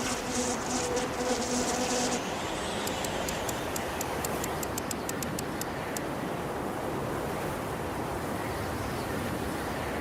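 Steady rushing wind, the strong wind of a cartoon soundtrack. An insect's buzzing runs over it for the first two seconds, and a quick run of small ticks follows from about three to six seconds in.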